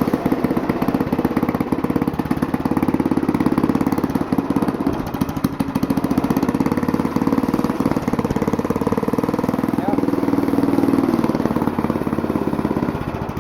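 Go-kart's stock 136 cc, 4 hp single-cylinder engine running steadily with rapid, even firing, its pitch rising a little about ten seconds in.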